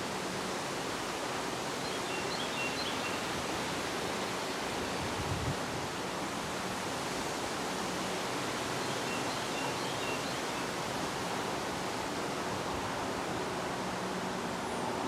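Steady wind blowing through leaves and trees, an even rushing hiss with no break.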